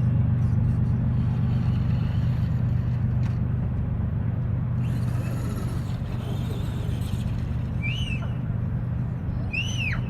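A truck engine idling with a steady low drone. Two short, high-pitched chirps come near the end.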